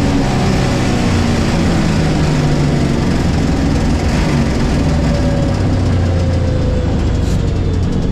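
The naturally aspirated big-block V8 of a 1969 Camaro drag car, heard from inside the cabin, running loudly as the car slows down. The engine note falls slowly over several seconds under wind and road noise.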